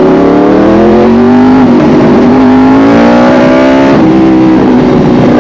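Yamaha R1 sportbike's inline-four engine pulling under acceleration, its note rising, with a brief easing about a second and a half in and a small step down near four seconds before it holds steady.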